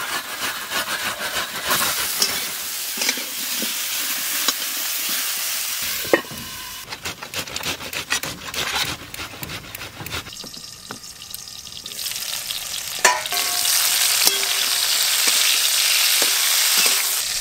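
Cauliflower florets sizzling as they fry in mustard oil in a metal pan, with a spatula scraping and turning them. In the middle it goes quieter, with the rasping strokes of a tomato being grated on a steel grater, and then the frying sizzle returns louder near the end.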